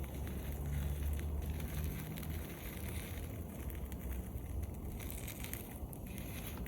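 Wood campfire crackling with scattered small pops, over a low rumble that eases after about two seconds.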